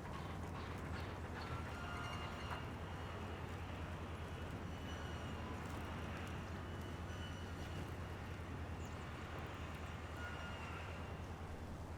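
Outdoor ambience at a bird feeder: a steady low rumble, with a few faint, short high bird calls and some soft clicks now and then.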